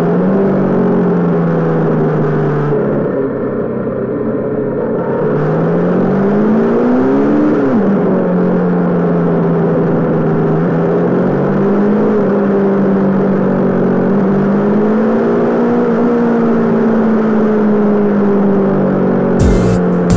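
Honda CB500 parallel-twin motorcycle engine running under load at steady cruising revs, heard over wind and tyre noise. About three seconds in the throttle eases off for a couple of seconds, then the revs climb steadily and drop sharply about eight seconds in before settling back to a steady pull. Music comes in near the end.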